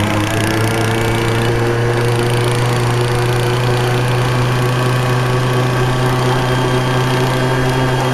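Small engine running loud and steady at a near-constant speed, its pitch stepping up slightly right at the start.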